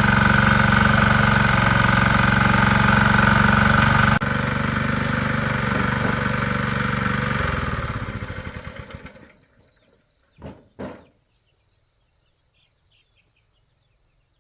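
Restored Honda GX200 single-cylinder engine running steadily, then shut off, slowing into separate firing beats until it stops about nine seconds in. Two brief knocks follow, then a faint steady high chirring of insects.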